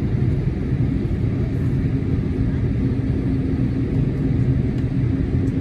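Boeing 787-8 cabin noise while the aircraft lines up on the runway: its engines at low power and the cabin air system give a steady low rumble with an even hum.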